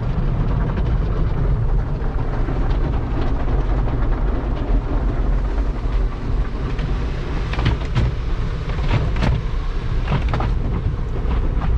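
Automatic car wash equipment working over the car, heard from inside the cabin: a steady low rumble, with a run of sharp taps and knocks on the body about two-thirds of the way through.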